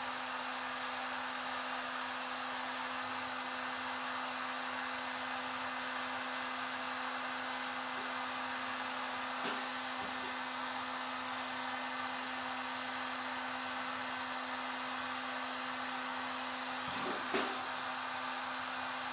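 Heat gun blowing steadily with a constant motor hum, warming the phone's glass to soften the screen adhesive. A few light clicks, the plainest near the end.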